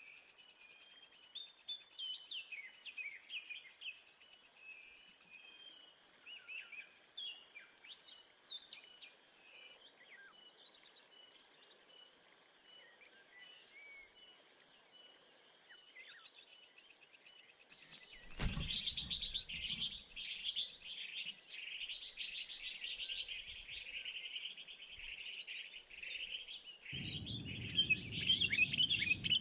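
Small birds chirping over a steady, pulsing trill of insects. About two-thirds of the way in there is a thump, followed by a burst of louder, rapid chirping. A low rumble comes in near the end.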